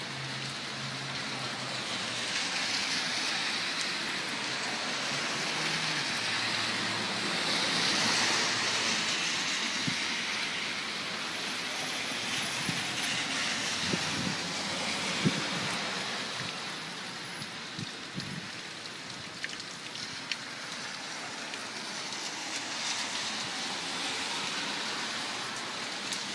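Steady rain hiss, with tyre hiss from cars on the wet street swelling and fading several times as they pass. A few sharp taps come in the middle.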